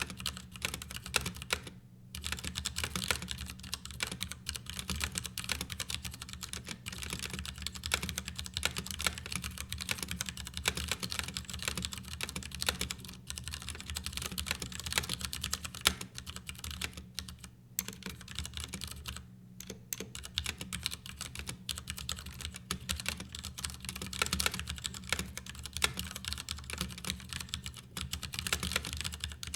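Typing on a Ducky Year of the Rat mechanical keyboard: a fast, continuous clatter of key clicks with a few short pauses. A faint steady low hum runs underneath.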